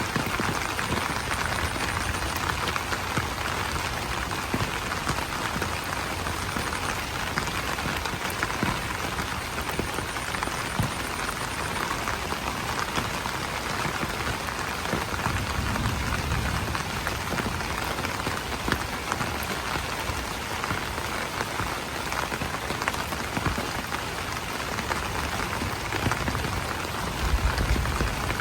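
Steady rain falling on broad banana leaves: a dense, even patter of countless drops.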